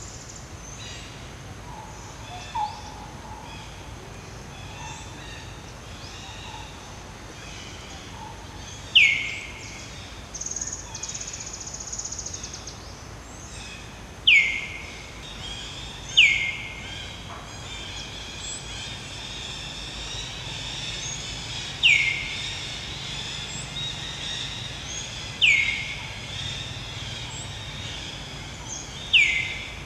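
Outdoor birdsong: a bird gives six short, sharp calls that fall in pitch, spaced irregularly a few seconds apart, over fainter chirping from other birds. A brief buzzy trill comes about ten seconds in.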